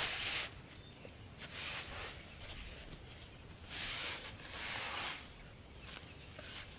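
Rough scraping strokes in a few separate bursts, the longest lasting over a second in the middle: material being worked by hand, as in shaping parts for a trap.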